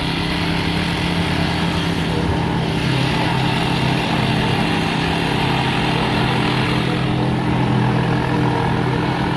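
A battery-powered saw rasping steadily through a car windscreen, starting abruptly and running for about ten seconds. Under it, an engine runs at a steady idle.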